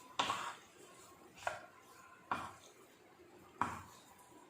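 A cooking utensil knocking against the pan four times while the chicken pieces are stirred, each knock sharp and briefly ringing.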